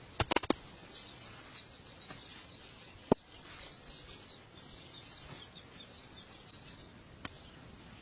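Small birds chirping repeatedly in woodland, with a quick run of sharp clicks near the start and single sharp knocks about three seconds in and near the end.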